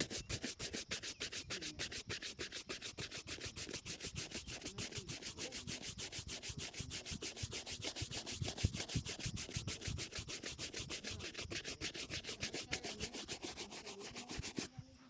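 A shoe being buffed in a shoe shine, with fast, even back-and-forth rubbing strokes, about four to five a second, that start suddenly and stop just before the end.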